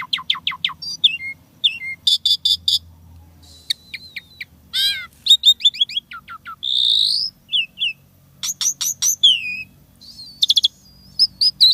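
Asian pied starling (jalak suren) singing a rapid, varied song of whistles, chips and quick downward-sweeping notes in fast runs, with mimicked phrases woven in.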